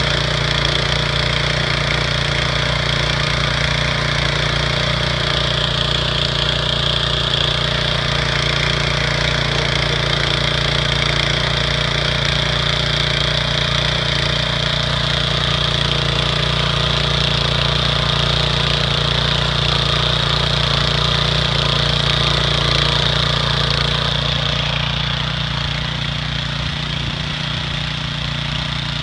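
Engine of a Choremaster garden cultivator running steadily, getting slightly quieter near the end.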